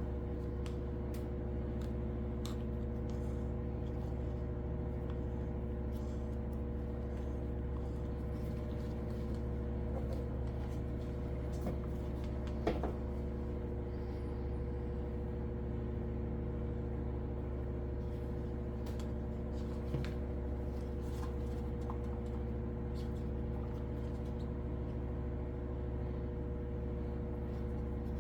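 A steady machine hum, even and unchanging, with a few faint taps and clicks over it, the clearest about halfway through and again a little later.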